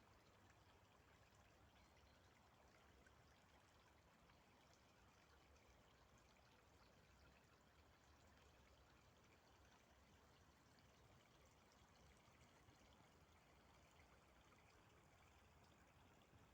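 Very faint, steady sound of running water, close to silence.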